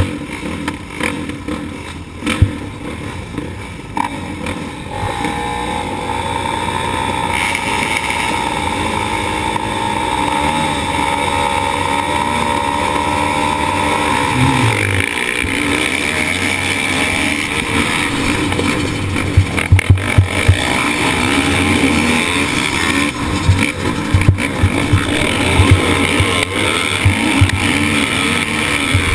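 Motocross motorcycle engine heard close up from an onboard camera. It runs at a steady held pitch for several seconds, then its revs change and vary as it is ridden, with sharp knocks and jolts in the second half.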